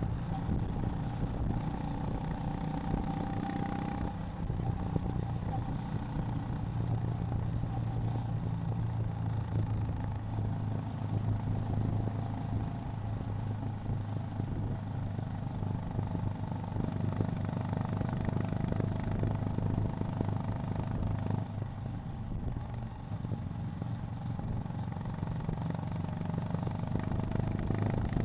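Honda GB350's air-cooled single-cylinder engine running at low revs under way. The engine note shifts about four seconds in and again around twenty seconds in.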